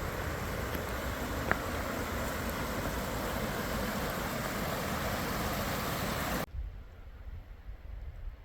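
Steady rushing of water, an even hiss, with a single sharp click about a second and a half in. It cuts off abruptly about six and a half seconds in, leaving a quieter low rumble.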